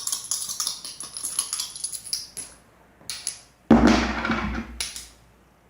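Metal coins jingling and clinking in a rapid run with a bright ring, then, after a short pause, a louder and heavier clatter of coins about three and a half seconds in, ending with a brief final jingle.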